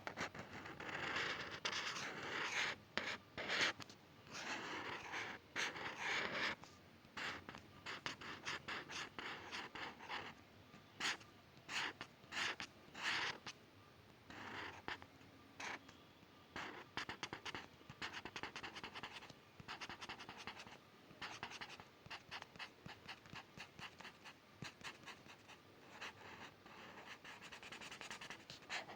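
A drawing tool scratching across paper in repeated strokes, longer sweeping strokes in the first few seconds and then many short quick strokes.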